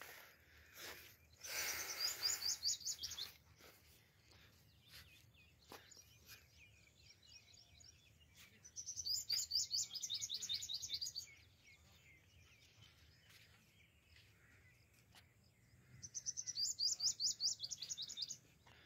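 A small bird singing three rapid high trills, each about two seconds long, repeating every seven seconds or so, with a brief rustle near the start.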